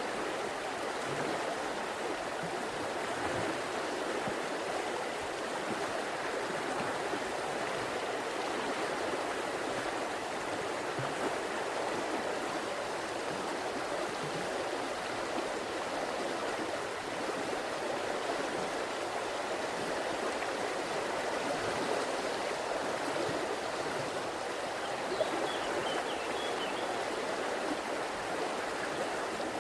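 River water flowing in a steady, unbroken rush, with a brief faint high chirp near the end.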